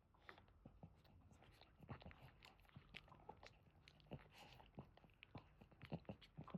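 Faint, irregular wet clicks and smacks of dogs' mouths, from a whelping Boston terrier and her newborn puppies.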